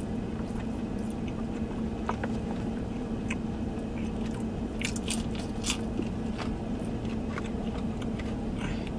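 Chewing and crunching a slice of thin-crust pizza close to the microphone, with scattered short crackles of crust, over a steady low hum.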